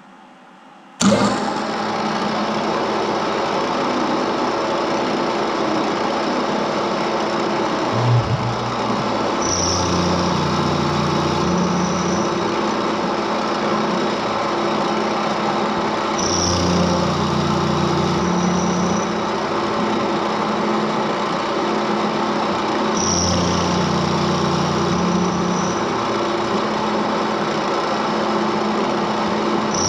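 Homemade CNC mill starting up about a second in and then milling aluminium with a 6 mm endmill, a steady loud machine sound. About every seven seconds a pattern of low hums and a high whine repeats for two or three seconds as the machine runs through repeated passes.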